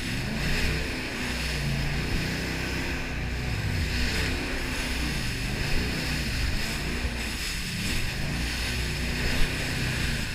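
Jet boat's engine running steadily, its pitch wavering a little, over a steady rush of wind and water noise.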